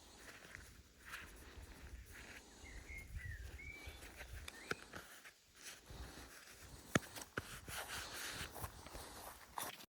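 Rustling of grass and brush in irregular swishes. A short chirping bird call about three seconds in, and a sharp click about seven seconds in.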